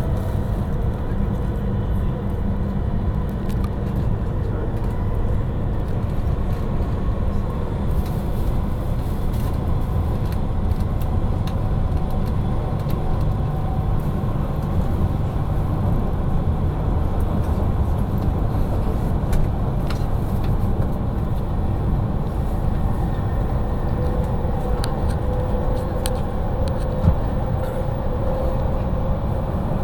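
Running noise inside the passenger cabin of an E5 series Shinkansen in motion: a steady low rumble from the wheels and running gear, with a faint whine that rises a little near the end. A single small knock near the end.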